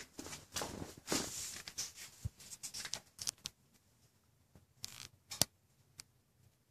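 Intermittent rustling and scraping for the first few seconds, then a few isolated sharp clicks: handling noise while moving to the other side of the car.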